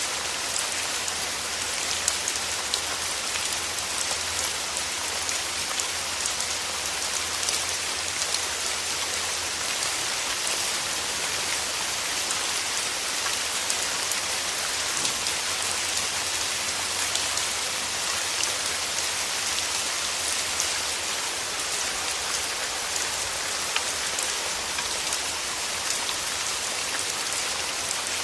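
Steady rain falling on rose petals and leaves: an even hiss of rain with many sharp single-drop ticks scattered through it and a faint low rumble underneath.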